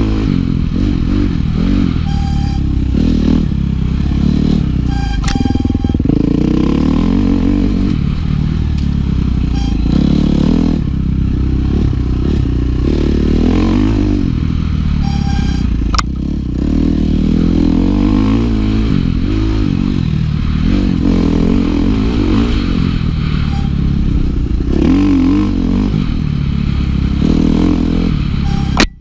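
Dirt bike engine under riding load, its revs rising and falling again and again as the bike is throttled on and off through the trail, with clatter from the bike and a few sharp clicks.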